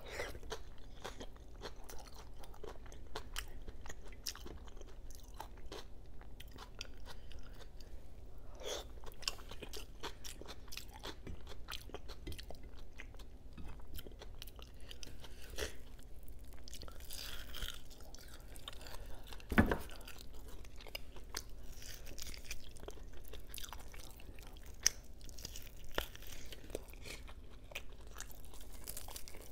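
Close-miked chewing and mouth sounds of someone eating soft silken tofu and adobo meat with her fingers, with many small smacks and clicks. One sharper knock comes about two-thirds of the way through.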